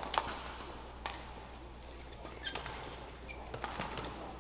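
Badminton rally: sharp racket strikes on the shuttlecock roughly once a second, with short squeaks of court shoes between them.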